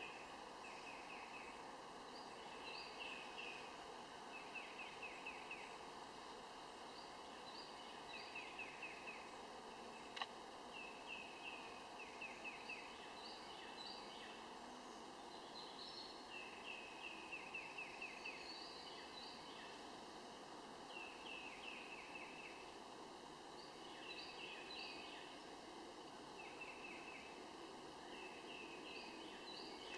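Faint bird song: short, rapid strings of repeated high notes every few seconds over a steady background hiss, with one sharp click about ten seconds in.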